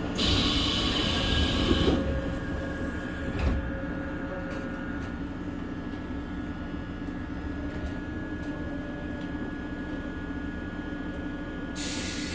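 Seoul Subway Line 1 train running, a steady hum with fixed electric motor tones. A loud hiss covers the first two seconds, a short thump follows a second and a half later, and a second hiss starts near the end.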